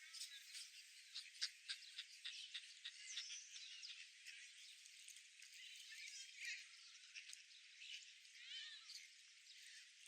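Faint, thin chorus of small birds, with many short sharp chirps and twitters and a few quick swooping calls, one about three seconds in and another near the end. There are no low sounds underneath.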